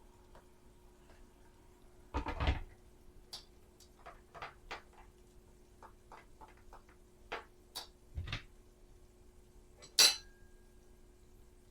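Dishes and cutlery clattering and clinking: a cluster of knocks about two seconds in, then a run of light taps and clinks, and a sharp clink near the end that rings briefly.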